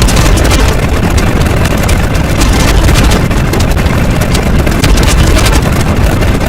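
Loud, steady, rough rumbling noise, heaviest in the low end, with fine rapid crackling above it.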